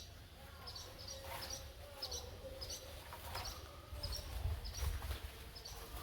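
Small songbird chirping repeatedly, short high chirps about one to two a second, over a low rumble.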